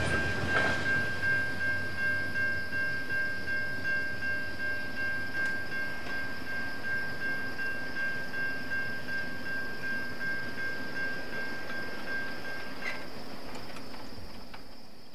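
Train rolling past with a rhythmic wheel clack and a steady high-pitched squeal that stops about two seconds before the end, the sound slowly fading away.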